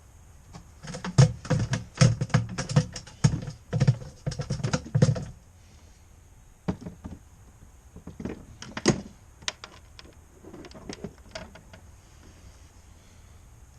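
Rapid clattering knocks and clicks against the plastic hull of a small fishing boat for about four seconds, then scattered clicks: handling in the boat just after a crappie is landed.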